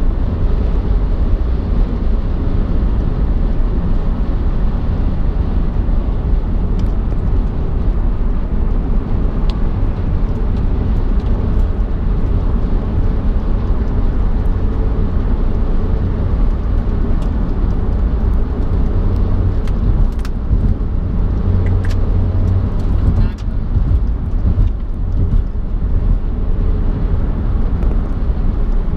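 Car driving on the road: a steady low rumble of road and engine noise, with a few brief faint ticks.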